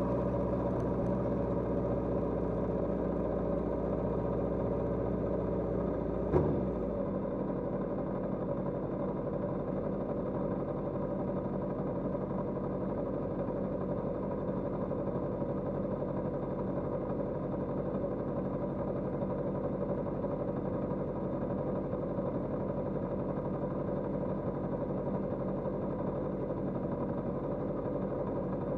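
Kawasaki GPZ550's air-cooled inline-four engine dropping in revs as the bike slows, then idling steadily. A single sharp click about six seconds in.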